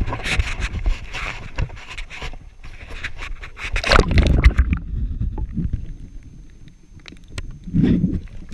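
Canoe paddling: the paddle splashing and dipping in the water, scraping and knocking against the canoe's hull, with a louder, low, heavy surge about four seconds in.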